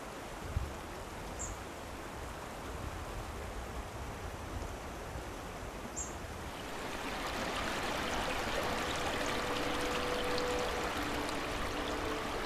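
Flowing stream water, a steady rushing hiss that grows louder about halfway through. Soft sustained music notes come in over it near the end, and two brief high chirps sound early on.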